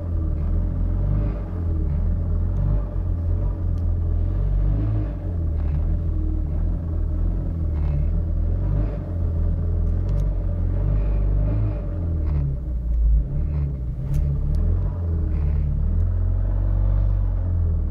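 Mk1 Astra Estate's engine running at low revs with an uneven, lumpy rumble, the sign of a misfire low down in the rev range.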